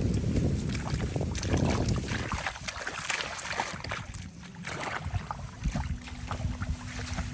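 Water splashing and sloshing in short irregular strokes, with wind buffeting the microphone at the start. A faint steady hum comes in about six seconds in.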